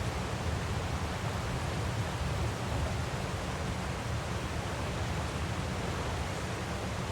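Waterfall rushing steadily: an even noise with a strong low rumble and no change.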